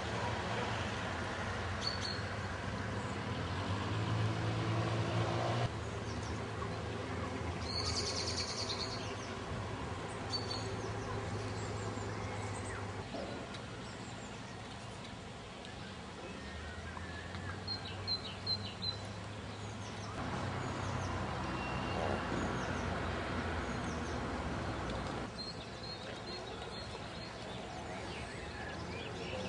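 Birds chirping now and then over a steady low rumble of outdoor background noise; the background changes abruptly several times.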